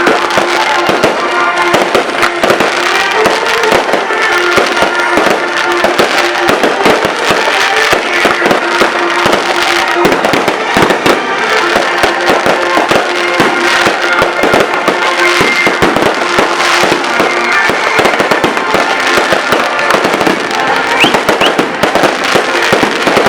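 Fireworks and firecrackers crackling and popping in a rapid, unbroken stream, over music with steady held notes.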